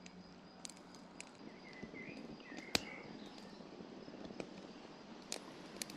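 Small wood fire of birch bark, twigs and dry grass in a camp stove crackling faintly, with scattered pops and one sharper pop about three seconds in. Faint high chirps come in briefly near the middle.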